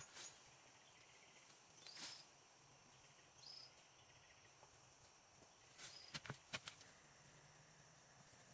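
Near silence, broken by a few faint clicks, a small cluster of them about six seconds in, and a few brief high chirps.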